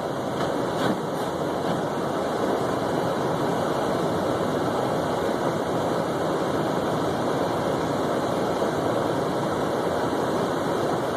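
Steady road and wind noise of a car driving through a snowstorm, with a few faint clicks in the first couple of seconds.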